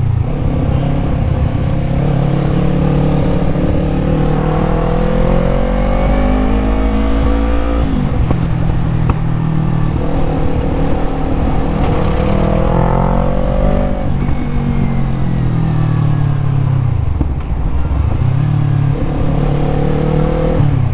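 Yamaha MT-03's parallel-twin engine pulling through the gears, its revs climbing and then dropping sharply at two upshifts. Near the end the revs fall away low, then climb again.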